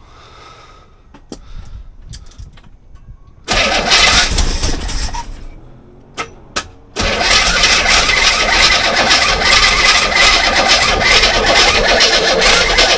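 Chevrolet 350 small-block V8 starting. It fires about three and a half seconds in and dies away, then catches again about seven seconds in and keeps running steadily. The ignition timing is still well off.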